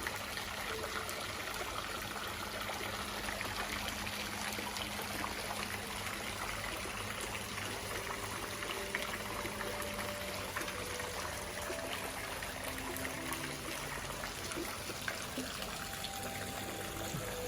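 Water trickling and splashing steadily, like a small stream or garden water feature. A few short, soft held notes come in over the second half.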